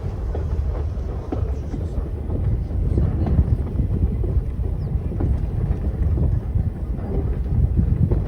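Steady low rumble of a train coach rolling along the track, with scattered short clicks and rattles.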